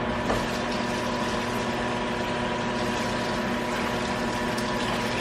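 Kitchen sink tap running steadily while tongs are rinsed under it, with a steady hum underneath.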